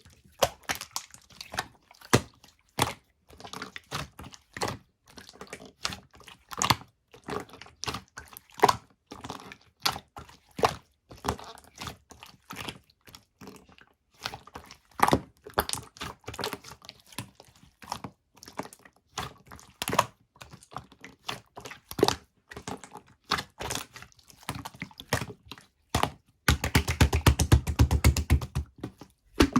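Slime being handled and squeezed, giving a string of irregular sharp clicks and pops. About 26 seconds in comes a fast, dense run of crackling pops lasting about three seconds.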